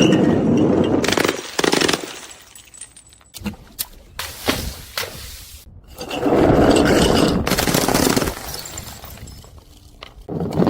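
Glass bottles being crushed and breaking, crunching and shattering. There are two long bouts, one at the start and another from about six to eight seconds in, with sharp cracks and shorter crunches between them.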